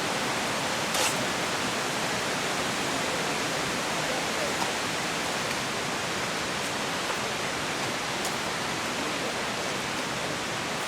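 Steady, even rushing hiss of water in a rainforest, with one short knock about a second in.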